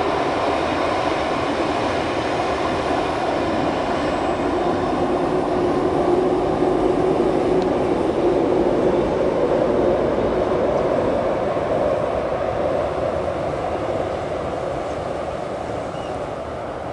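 Regional train rumbling across a high steel truss railway bridge, a steady rumble that swells through the middle and fades toward the end.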